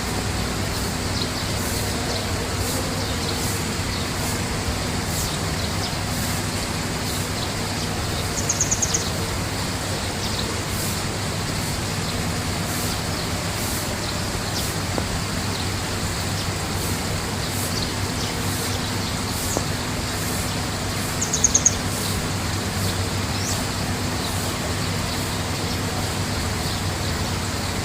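Steady background hum and noise, with a small bird giving a short rapid trill twice: about eight seconds in and again about twenty-one seconds in.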